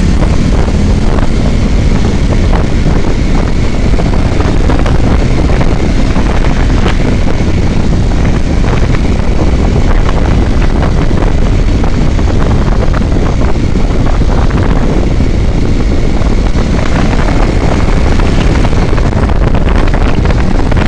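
Loud, steady wind buffeting on the microphone of a moving vehicle on the highway, with engine and road noise underneath.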